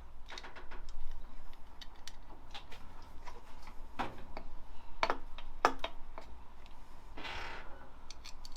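Irregular light clicks and taps of metal engine parts and hand tools during engine reassembly, with a few sharper knocks around the middle and a brief scrape near the end.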